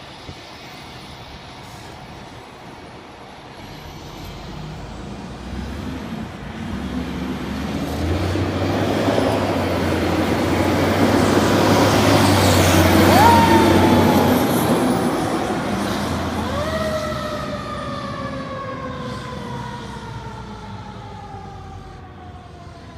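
Fire engine responding: its engine grows louder as it approaches, passes loudest around the middle and fades as it pulls away. A siren gives a short rising whoop mid-way, then sounds a long wail that swings up and slowly falls in pitch through the rest.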